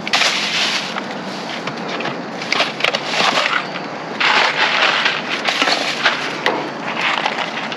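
Rummaging through trash in a dumpster: bursts of crinkling and crunching from packaging and bags, with scattered clicks and knocks, reaching for a case of ketchup.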